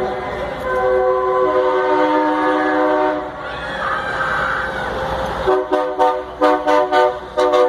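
Truck air horns sounding as big rigs pass: a held multi-note blast in the first few seconds, then a quick run of short toots near the end.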